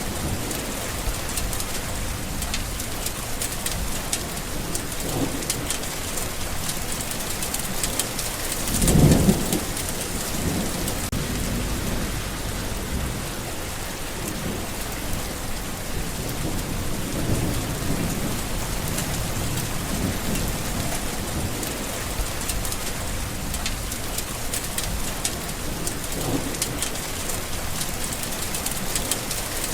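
Steady rain falling, with low rolls of distant thunder swelling and fading several times, the loudest about nine seconds in.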